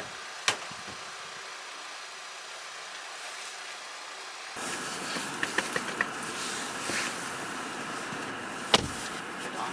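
A car with its engine running. A faint steady hiss at first, then from about halfway a louder running noise with a quick run of light clicks and one sharp knock near the end.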